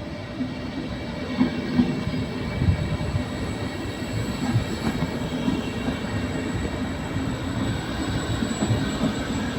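Passenger train running through the station close by: a steady low rumble with sharp knocks from the wheels, loudest in a cluster a second or two in.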